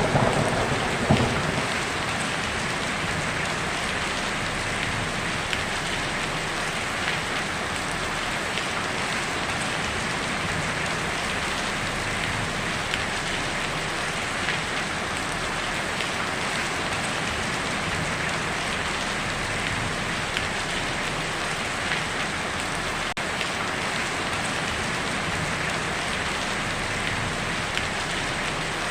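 Heavy rain falling steadily on a tin roof, with small scattered drop ticks. In the first second or two the rumbling tail of a thunderclap dies away.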